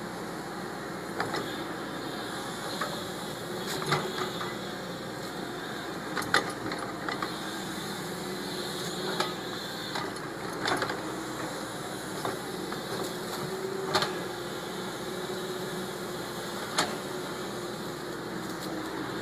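Caterpillar 320 excavator's diesel engine running steadily, with about ten sharp metallic knocks scattered through it.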